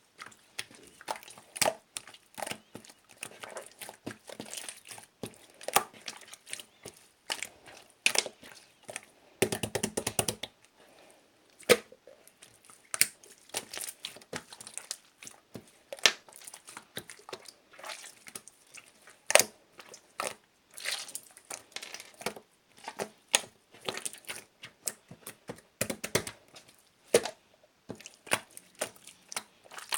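Clear slime being squished and pressed by hand, giving irregular sharp clicks and pops from trapped air, with a denser stretch of squelching about nine to ten seconds in.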